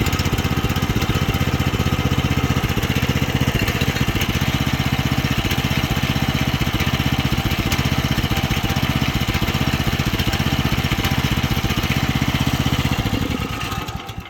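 Small carbureted gasoline engine of a Rippa Mule Trac mini excavator running steadily on choke after its carburettor was primed with poured-in gas. It fades out and dies near the end.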